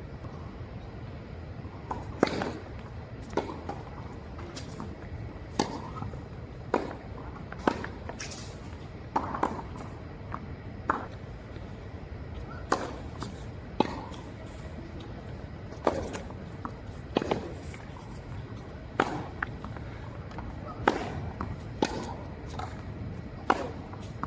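Tennis ball being struck by rackets and bouncing on the court in a rally: a run of sharp knocks about every second or two, over steady background noise.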